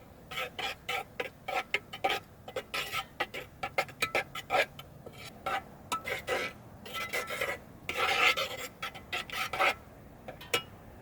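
A metal utensil scraping and clinking against a plate in many quick, short strokes, stopping near the end.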